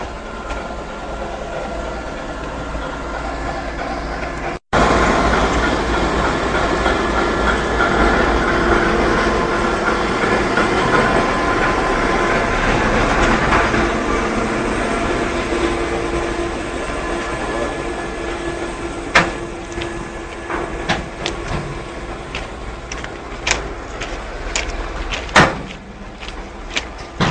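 Train passing close by, its wagons rolling steadily over the rails, with sharp clacks and knocks in the later part as the wheels cross rail joints. The sound cuts out for a split second about five seconds in.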